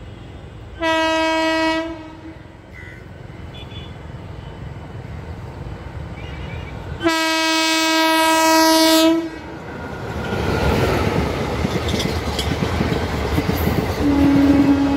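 Indian Railways WAP-4 electric locomotive sounding its horn as it approaches: a one-second blast, then a longer blast of about two seconds. Then the rising rumble and clatter of the express and its ICF coaches passing at speed, with a further horn blast near the end, lower in pitch now that the locomotive has gone by.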